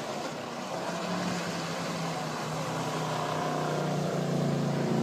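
Motorboat engine running steadily and growing louder over splashing water.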